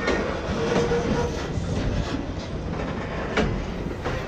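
Train passing close by: a continuous rumble with wheels clattering over the rail joints, and one louder knock about three and a half seconds in.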